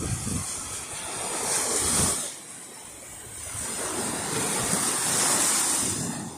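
Sea surf: waves breaking and washing up the shore in two swells, one about two seconds in and a longer one later, with some wind on the microphone.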